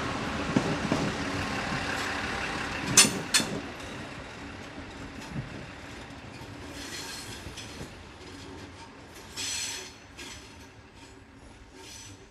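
An Endeavour diesel railcar set running away over pointwork and fading into the distance, its wheels clacking over the rail joints. There is a sharp loud strike about three seconds in, and brief high wheel squeals come later as it fades.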